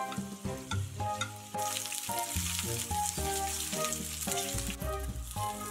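Sliced sausage and fried potato cubes sizzling in a frying pan while being stirred with chopsticks; the sizzle grows strong about a second and a half in. Background music plays throughout.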